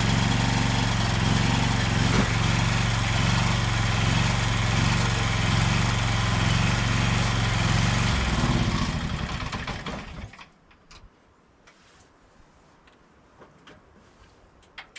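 Bolens H16XL garden tractor's engine running steadily, then shut off about eight seconds in; it winds down in pitch and stops about two seconds later. A few faint clicks follow.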